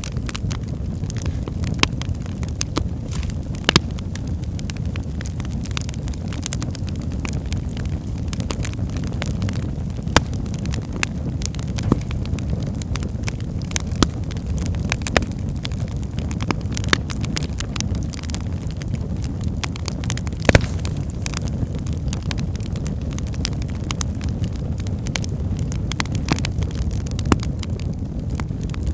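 Wood fire burning in a fireplace: a steady low roar of flames with frequent crackles and sharp pops from the burning logs, the strongest pop about twenty seconds in.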